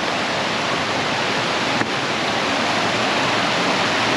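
Rushing glacial meltwater: a mountain stream pouring over rocks in a steady, loud rush of water.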